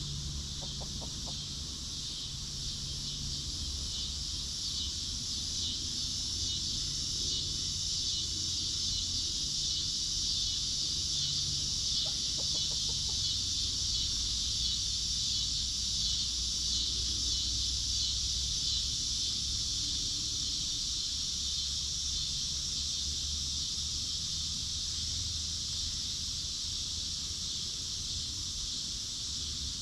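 Hens clucking low and on and off, over a steady high-pitched insect chorus that is the loudest sound.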